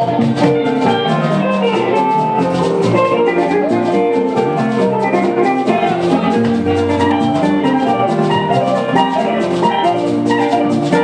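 Live fuji band music: a dense, steady drum and percussion rhythm under bright melodic notes, with no singing.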